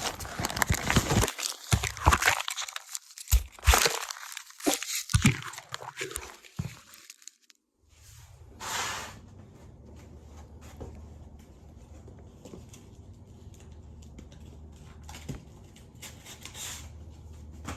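Sandpaper being handled and torn into a strip: several seconds of irregular crinkling and tearing, then it stops and only faint room tone with a low hum remains.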